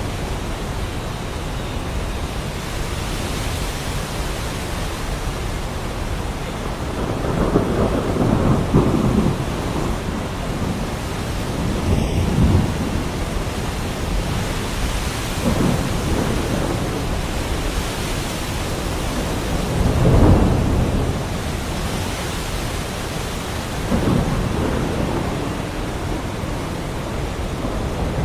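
Thunderstorm: steady heavy rain with thunder rumbling several times, the loudest roll about twenty seconds in.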